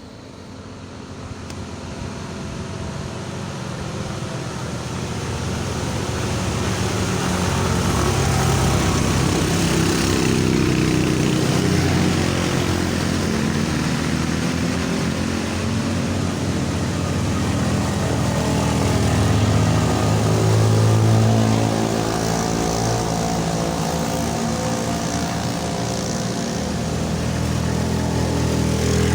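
A motor vehicle's engine running under load up a steep climb, getting steadily louder over the first several seconds as it approaches, then holding a low, steady note with a brief louder peak about twenty seconds in.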